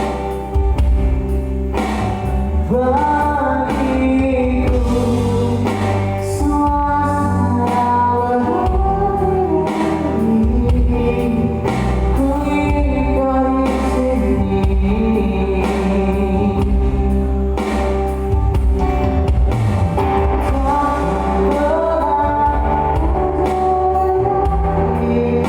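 Live band playing an Indonesian pop song, with a singing voice carrying the melody over guitar and a steady bass.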